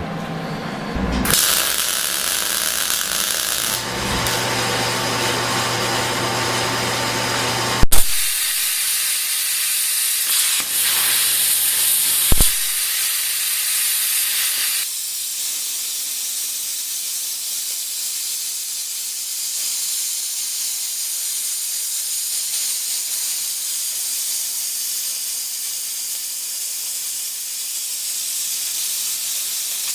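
Welding the 3/16 spacers onto the loader arm: a steady hiss that changes character between a few separate passes, with a sharp click about eight seconds in.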